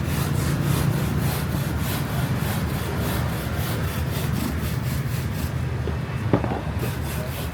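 Hand tool worked back and forth in quick rhythmic strokes, about three to four a second, scraping or sawing at the material. The strokes stop about five and a half seconds in and pick up again near the end, with a single sharp knock in the gap, over a steady low hum.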